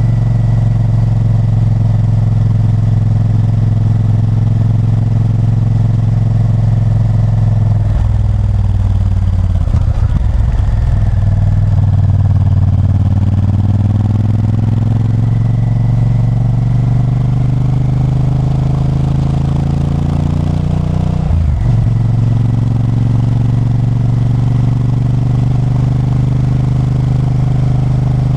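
Honda Varadero 1000's 996 cc V-twin engine pulling on the road. Its pitch drops about eight seconds in, then climbs steadily for several seconds as the bike accelerates. It breaks briefly about 21 seconds in, where the pitch falls back, and then holds steady.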